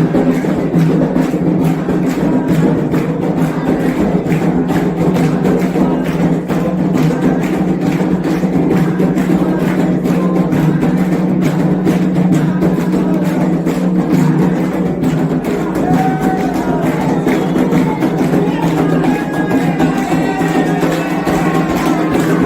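Candomblé ritual music: atabaque hand drums playing a steady, dense rhythm with a struck metal bell, and voices singing over it in the second half.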